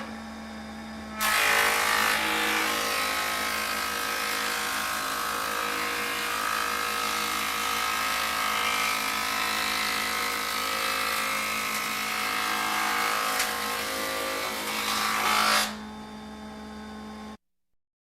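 A steady electric hum, then a motor-driven machine starts abruptly about a second in. It runs steadily with a loud whirring noise for about fourteen seconds and cuts off, leaving the hum, which stops shortly before the end.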